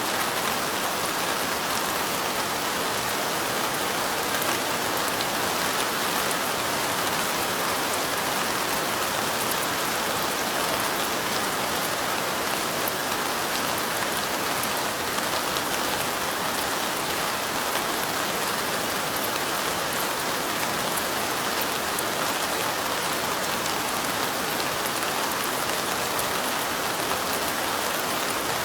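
Steady light rain: an even hiss with a fine patter of drops, unchanging throughout.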